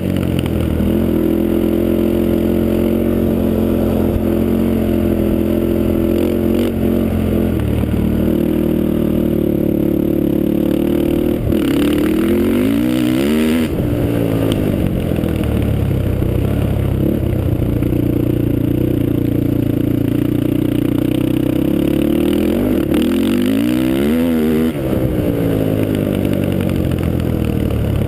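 Honda TRX450R quad's single-cylinder four-stroke engine, a Janssen-built motor breathing through a Motoworks exhaust, running hard at a fairly steady pitch. Twice, around 12 and 24 seconds in, the revs drop and climb back up.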